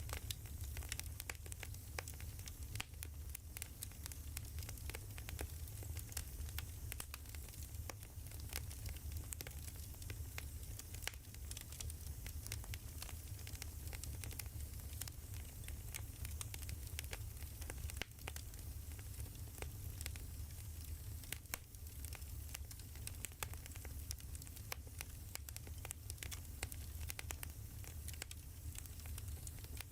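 Wood fire crackling: many small, irregular pops and snaps over a steady low rumble.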